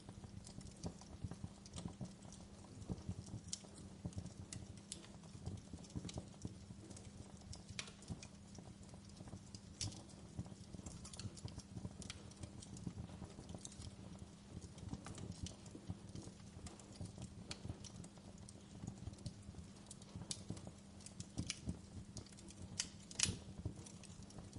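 Wood fire crackling in a fireplace: a dense low crackle with irregular sharp pops and snaps throughout, the loudest pop near the end.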